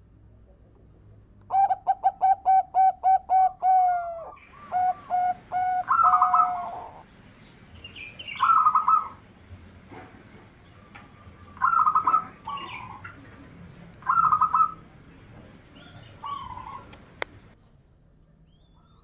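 A zebra dove (perkutut) cooing. A fast run of about a dozen short, even notes opens the song, followed by several short cooing phrases a couple of seconds apart. A single sharp click comes near the end.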